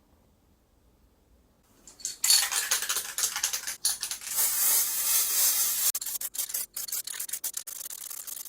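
Rubbing on the cello's body, like sanding the wood, starting about two seconds in after near silence. It goes on in quick strokes with a few brief breaks.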